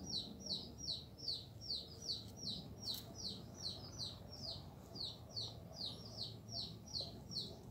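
A bird calling: a steady, unbroken run of short, high, falling notes, two to three a second.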